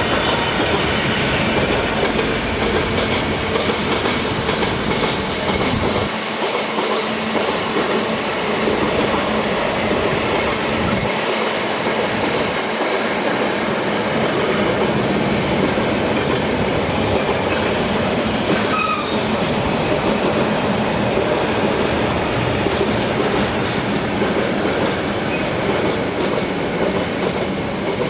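A train passing close by: a loud, steady rush of wheels on rail that holds up through the whole passage, with a brief squeal of wheels on the rails a little past the middle.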